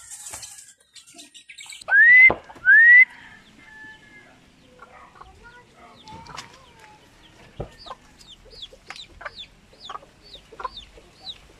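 Birds calling: two loud, short rising calls about two seconds in, then a run of high, falling chirps repeating about three times a second.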